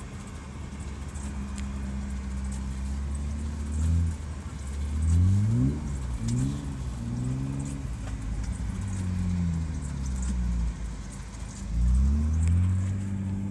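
BMW E36's engine heard from inside the cabin while the car is driven on snow. It runs steadily, then is revved up and down several times in quick succession a few seconds in, and rises again near the end.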